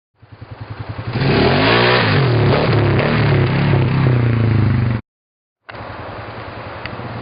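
Outboard motor catching with quickening firing pulses, then revving loudly, its pitch rising and falling. It cuts off abruptly, and after a short gap the motor runs steadily.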